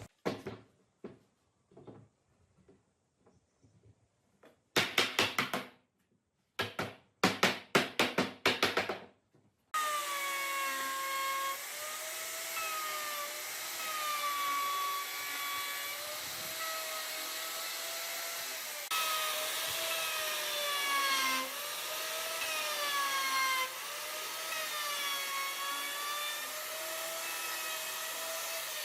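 Woodworking tool sounds: a few light knocks, then quick back-and-forth strokes like sawing. About ten seconds in, a power tool starts and runs continuously, its whine dipping and rising as it is worked against the wood.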